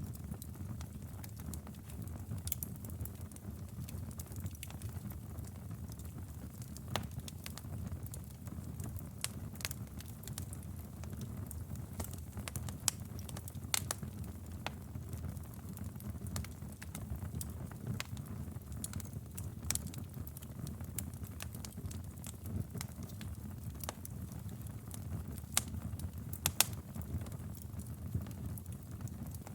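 Wood fire burning in a fireplace: a steady low rumble of flames with irregular crackles and sharp pops of burning logs, a few louder pops scattered through.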